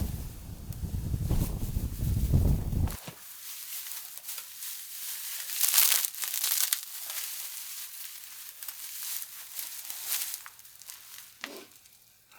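Dry tinder being crushed and crumpled by hand, with irregular crackling and rustling that start about three seconds in, after a low rumble.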